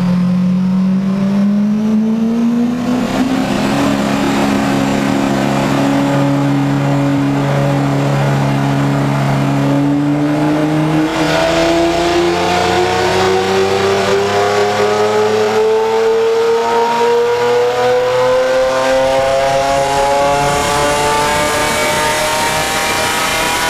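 Lamborghini Aventador LP700-4's V12 running through a Fi Exhaust system under load on a chassis dyno. Its pitch rises a little, holds steady for several seconds, then climbs slowly and evenly from about halfway as the revs build through a long pull.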